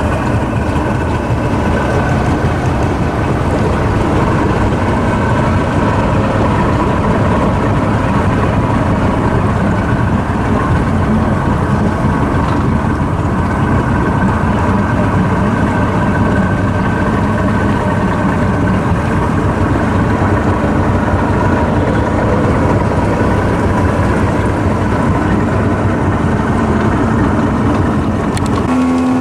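Jet boat underway, its engine running steadily. The sound cuts off abruptly just before the end.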